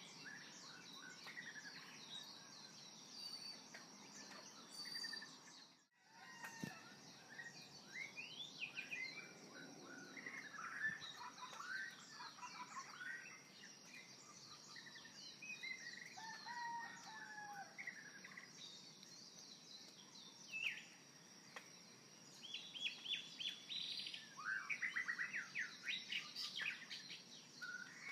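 Songbirds chirping and calling, many short rising and falling calls and rapid trills, over a steady high hiss. The sound cuts out for a moment about six seconds in.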